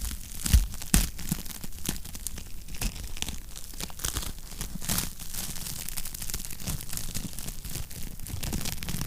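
Wood fire crackling in a fireplace: a dense run of small pops and snaps over a low rumble, with two louder pops about half a second and a second in.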